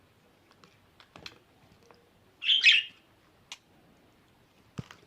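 Budgerigar giving one loud, short chirp about halfway through, then a brief higher chirp a second later, with a few faint clicks around them.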